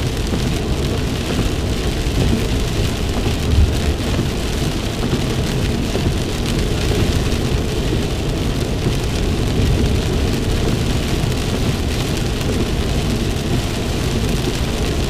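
Heavy rain pelting a moving car's roof and windshield, heard inside the cabin over road noise, with a brief louder low thump about three and a half seconds in.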